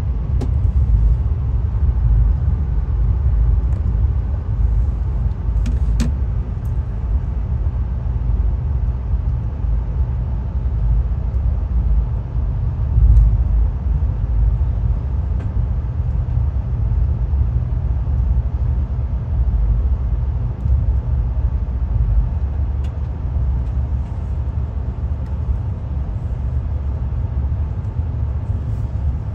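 Passenger train running on the line, a steady low rumble heard from aboard the moving car, with a single sharp click about six seconds in.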